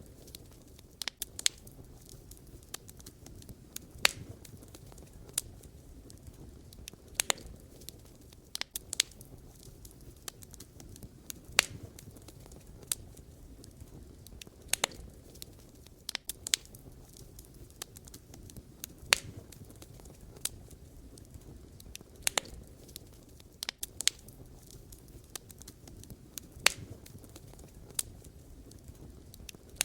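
Wood fire burning, with sharp irregular crackles and pops from the burning logs over a low steady rumble of the flames.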